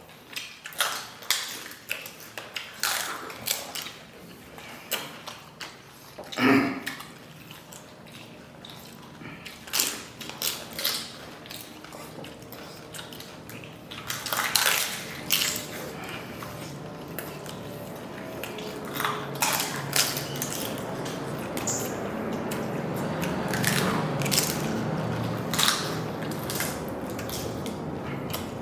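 Crisp fried panipuri shells crunching as they are bitten and chewed: irregular sharp crunches, some in quick clusters, with wetter chewing between them. A steady background noise builds up from about halfway through.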